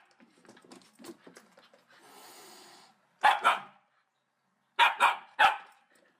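Dog barking: a single bark about three seconds in, then three quick barks near the end, after a few seconds of faint scuffling.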